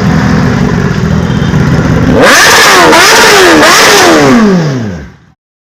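A motorcycle engine running with a steady rumble, then about two seconds in revving loudly in quick rises and falls of pitch before a long falling pitch. The sound cuts off abruptly near the end.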